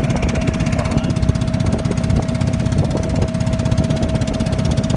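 A boat's engine running steadily under way, with a rapid even pulse and a faint steady tone over it.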